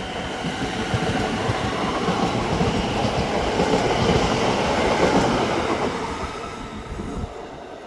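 A passenger train running through the station without stopping, its wheels and running gear making a dense rumble that peaks mid-way and fades as it moves off.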